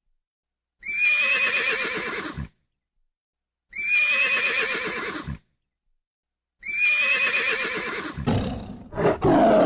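A horse whinnying three times, the same wavering, high-pitched call about a second and a half long each time, with dead silence between. Near the end a deep, rough roar begins.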